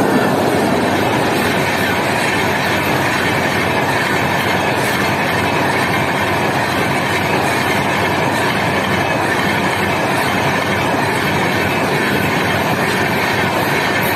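Passenger train's coaches passing close at speed, their steel wheels running on the rails in a steady loud rush that holds even throughout.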